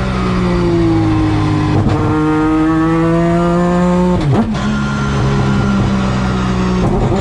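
The 20B-PP three-rotor peripheral-port rotary engine of a Mazda FD RX-7 race car, heard from inside the cabin. Its note dips a little, then climbs steadily under acceleration for about three seconds. It breaks sharply about four seconds in, then runs at a steady pitch, and breaks briefly again near the end.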